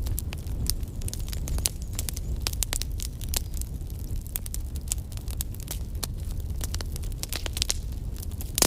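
Burning wood fire crackling, with many irregular sharp snaps and pops over a steady low rumble; the loudest pop comes near the end.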